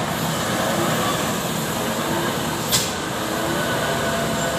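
Heavy tow truck engines running steadily, with a short sharp click about three seconds in.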